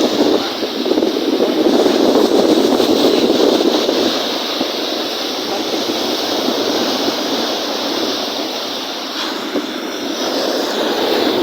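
Strong wind and lake waves: a loud, steady rushing noise that swells and eases slowly, with no engine tone in it.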